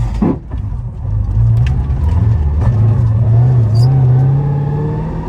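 Infiniti Q45's V8 running as the car drives, with a thin whine that rises slowly in pitch from about two seconds in, which the owner puts down to the manual transmission.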